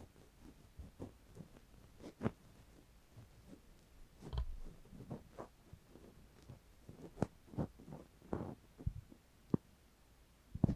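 Close-up ASMR ear-cleaning sounds: tools rubbing and tapping at the microphone's ear, giving soft irregular low thumps, a few sharp clicks and scratchy rustles.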